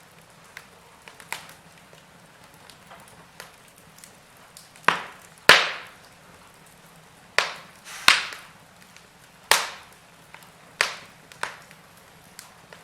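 Wood fire crackling in a fireplace: a faint steady hiss with scattered small crackles and a handful of loud, sharp pops in the middle of the stretch.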